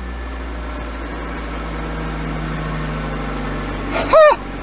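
1991 Chevy Cavalier's 2.2-litre engine idling steadily, freshly started and still warming up. A brief vocal exclamation cuts in near the end.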